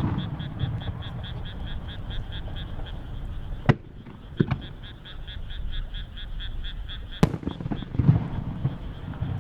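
Aerial firework shells bursting: a sharp boom right at the start, another about four seconds in with a smaller one just after, and a third near the end followed by crackling and low rumbling echoes. Under it runs a steady, fast pulsing animal call, about five pulses a second.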